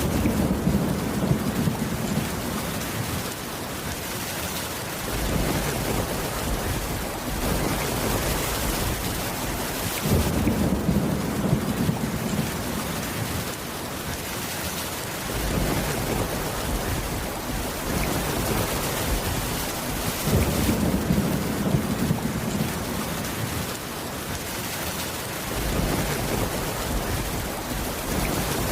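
Steady heavy rain, with low thunder rumbling again and again, a fresh roll swelling up about every five seconds.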